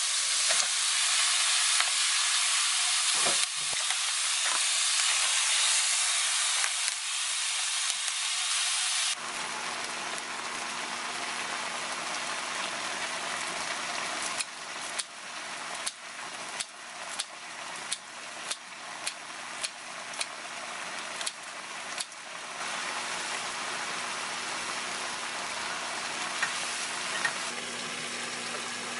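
Food sizzling in a nonstick wok: sliced onions frying in oil, loud and steady at first, then after a sudden change at about nine seconds a quieter sizzle of beef bulgogi simmering in its sauce. In the middle of that quieter sizzle comes a run of clicks, about two a second.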